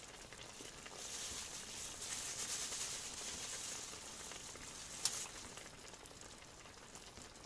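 Pilaf frying in hot fat in a pan on a wood stove, sizzling steadily. The sizzle swells about a second in and eases after about four seconds. A short tap comes about five seconds in.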